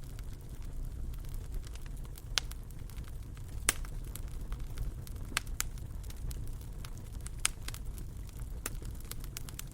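Wood fire burning in a fireplace: a steady low rumble with irregular crackles and a few louder pops.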